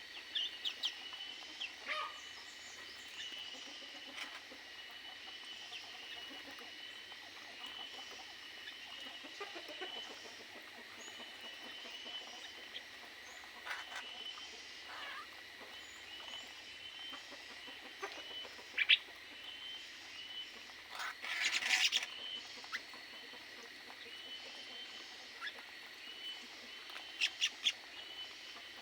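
Aviary birds chirping: a steady run of short, repeated chirps, with louder bursts of calls about two-thirds of the way through and again near the end. A faint steady high tone sits underneath.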